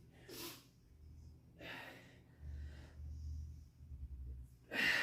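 A person breathing hard through a set of a strength exercise: three sharp breaths, the last and loudest near the end.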